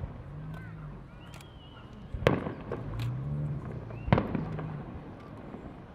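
Aerial fireworks shells bursting overhead, with sharp booms roughly every two seconds, the loudest a little over two seconds in and about four seconds in.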